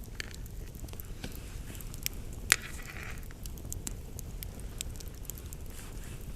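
Wood fire crackling: scattered sharp snaps with one loud pop about two and a half seconds in, over a steady low rumble.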